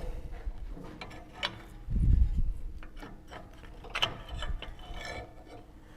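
Scattered clicks and knocks of hand work on a Volvo XC90 front anti-roll bar bushing mount as an insert is pushed into place, with a dull low thump about two seconds in.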